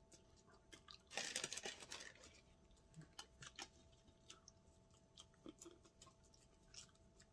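Close-up eating sounds: a crunchy bite and chewing burst about a second in, lasting about a second, then scattered soft mouth clicks of chewing.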